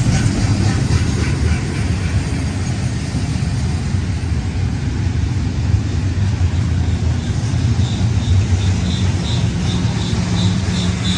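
Double-stack container freight train rolling past on its well cars: a steady low rumble of wheels on rail. A faint, regular high-pitched squeak, about three a second, starts about eight seconds in.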